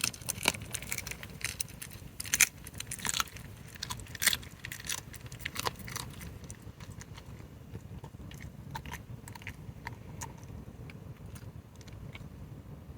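A fox chewing and crunching food, with many short crunches coming thick in the first half and thinning out in the second.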